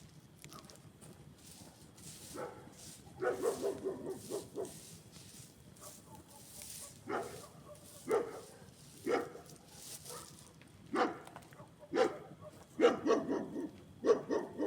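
A dog barking: a quick run of barks, then single barks about once a second, then another quick run near the end.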